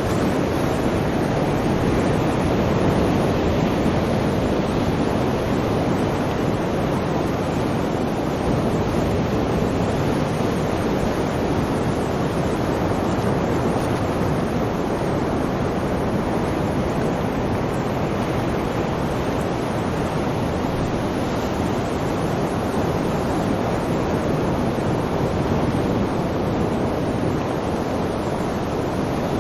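Sea waves: a continuous wash of surf noise that swells and eases only slightly.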